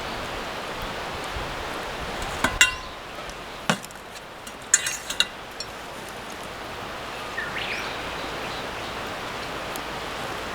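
A few sharp knocks and clinks, one followed by a brief ringing, over a steady rushing noise.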